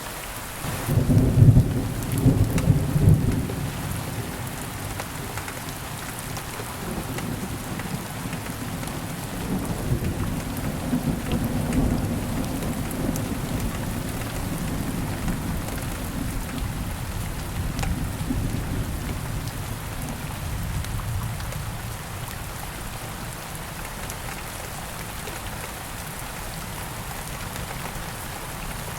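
Steady rain falling, with a long roll of thunder. The thunder breaks about a second in, is loudest over the next two seconds, then rumbles on more softly and fades out over about twenty seconds.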